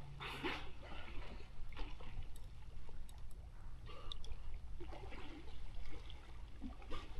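Water lapping and trickling around a kayak, with scattered small splashes and drips over a low steady rumble.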